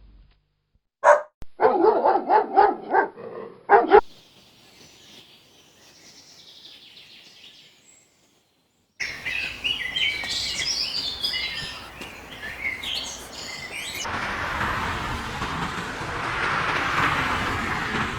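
A dog barking in a quick run of loud barks for about three seconds, then faint high twittering. After a short silence, birds chirp busily over a steady hiss that widens into a broad rushing noise in the last few seconds.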